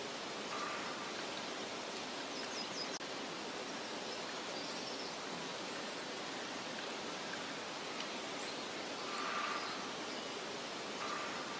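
Meadow nature ambience: a steady soft rushing hiss of wind, with a few faint, short, high bird chirps about two and a half seconds in and again near the end.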